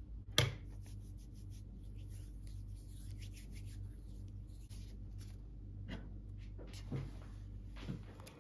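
Pen writing on paper: short scratchy strokes after a sharp click about half a second in, with a few soft knocks near the end over a low steady hum.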